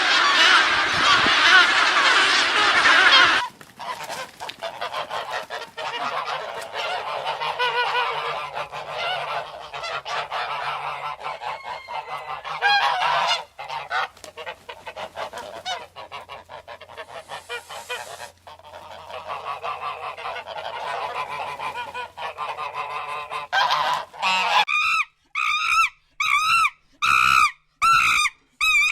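Geese honking: a dense clamour of many overlapping calls, giving way about 25 seconds in to a single bird's separate repeated honks, about two a second.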